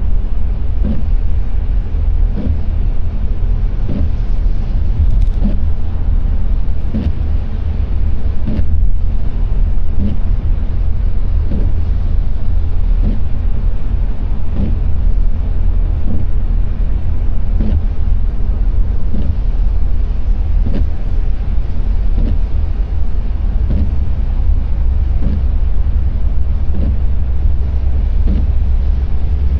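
Road noise inside a car driving in the rain: a steady low rumble of tyres and engine, with the windscreen wipers beating in a regular rhythm a little more than once a second.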